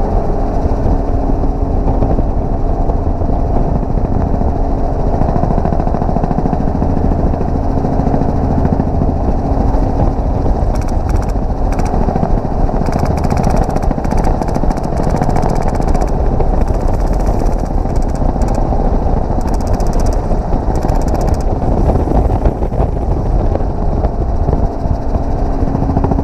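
Steady helicopter rotor and engine noise heard from aboard, with rapid full-auto fire from an HPA airsoft RPK (Echo 1/Cyma with a Wolverine Inferno engine) in a long stretch about ten seconds in and a shorter one about twenty seconds in.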